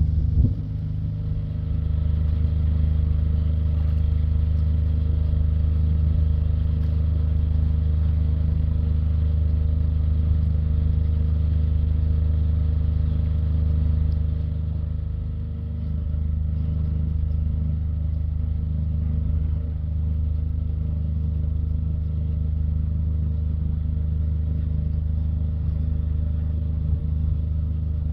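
Diesel engine of the river tug RT-178 running steadily: a low, even drone with a deep hum, easing slightly about halfway through.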